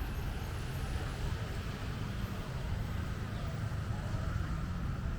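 Street ambience: a steady low rumble of city traffic.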